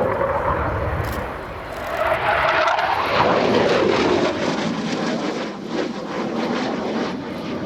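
Panavia Tornado jet's twin RB199 turbofans heard in flight. The noise swells about two seconds in and drops in pitch as the jet passes, then turns to a ragged crackle.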